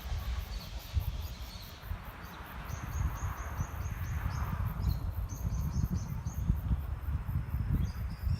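A small bird chirping, series of short high notes starting about two seconds in, over a fast, steady insect pulsing and an uneven low rumble.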